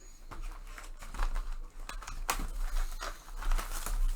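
Trading-card pack wrappers crinkling and cards being handled, a string of irregular short crackles and rustles, the loudest a little after two seconds in.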